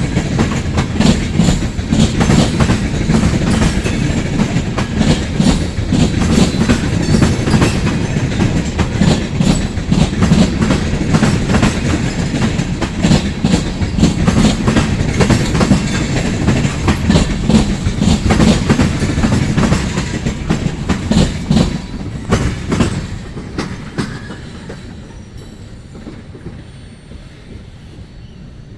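Freight cars of a long freight train rolling past, wheels clicking rhythmically over rail joints with a heavy rumble; about 23 seconds in the last cars go by and the sound fades away.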